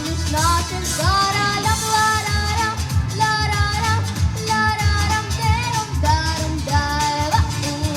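A young female voice sings a melody of held, sliding notes over a pop backing track with a steady bass and drum beat.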